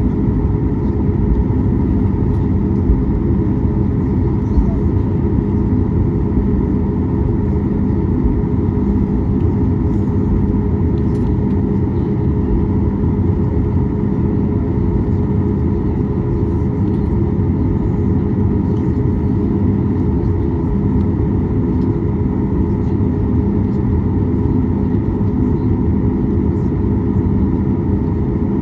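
Steady drone of a Boeing 737 MAX 8's CFM LEAP-1B jet engines heard inside the cabin: a deep, even rumble with constant humming tones that neither rises nor falls.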